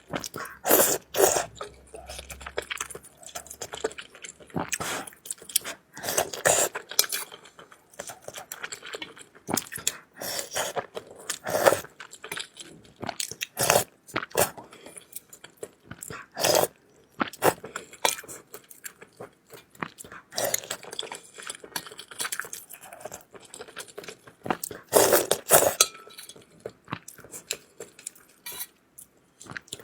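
Close-miked chewing and biting of food, mukbang-style, in irregular mouthfuls with sharp crunchy bites every second or so.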